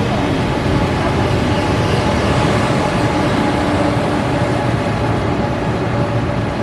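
Electric train running past on the station tracks: a loud, steady rumble with a faint electric hum.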